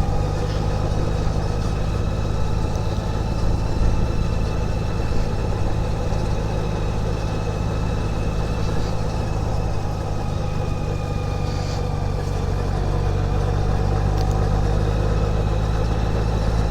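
Honda Goldwing GL1800 trike's flat-six engine running steadily at an easy cruise, a low drone whose pitch drifts gently with road speed.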